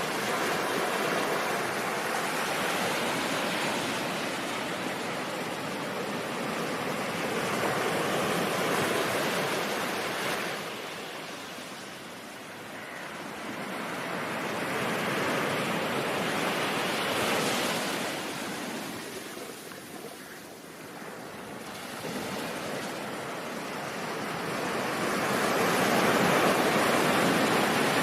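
Ocean surf: a continuous wash of breaking waves that swells and eases off in slow surges every eight to ten seconds.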